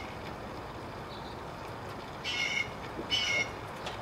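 Two short bird calls about a second apart, each a brief call lasting about a third of a second, over a steady low background hiss.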